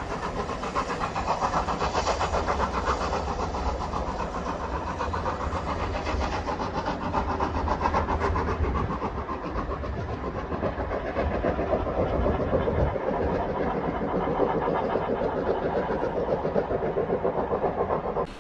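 Railway locomotive working steadily under power, with a fast, even pulsing beat. The sound cuts off suddenly near the end.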